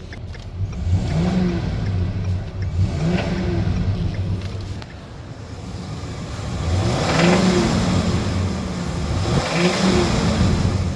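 Ford 5.4-litre V8 engine in a 2011 E350 van revved from idle in four throttle blips, the third longer and higher than the rest. This is a test for engine knock, which the inspector describes as kind of sounding like a knocking sound.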